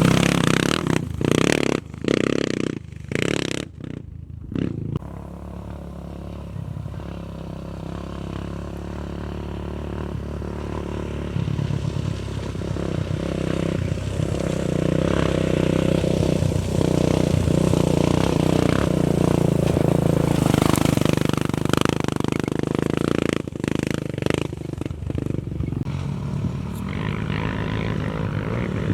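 Off-road race vehicle engine revving hard with sharp on-off throttle cuts for the first few seconds, then a steadier engine drone that grows louder and wavers again near the end.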